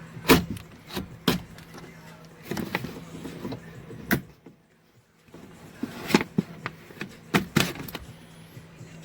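Scattered clicks, knocks and rattles of a tool and hands working on a car's plastic interior door trim while cutting out the screws that hold it. There is a brief near-silent gap about halfway through.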